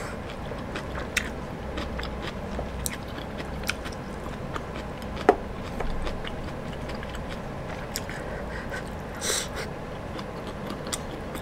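Close-miked chewing and biting of hot pot vegetables and food, with scattered small clicks of wooden chopsticks against a metal bowl and grill pan. One sharp tap about five seconds in is the loudest sound, and a short breathy hiss comes about nine seconds in.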